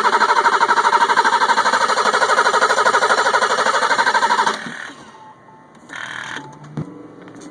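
1985 BMW 735i's straight-six being cranked on the starter, a fast, even chugging that does not catch and stops abruptly about four and a half seconds in: the engine will not fire, and the owner finds no spark reaching the plugs. A short rush of noise and a single click follow near the end.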